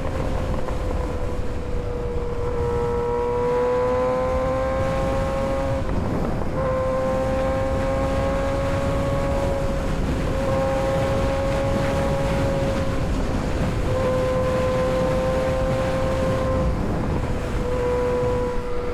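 Kawasaki ZX-6R 636's inline-four engine running at steady high revs while riding, its pitch holding with a brief dip or break every few seconds as the throttle is eased or a gear changes. Heavy wind rumble on the microphone underneath.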